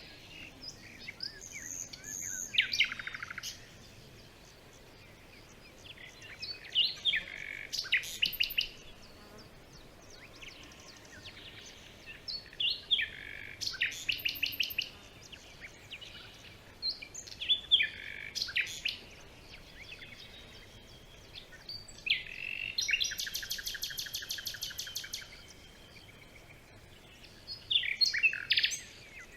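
Songbirds singing in a forest, repeated phrases of quick high notes and trills every few seconds with short pauses between.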